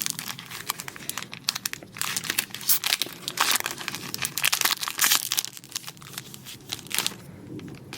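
Pokémon card booster pack's foil wrapper being torn open and crinkled: a dense run of sharp crackles and rustles that thins out near the end.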